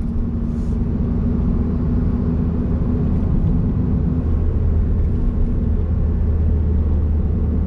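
Honda S660's small turbocharged three-cylinder engine running at a steady speed while driving, a steady low drone mixed with road noise.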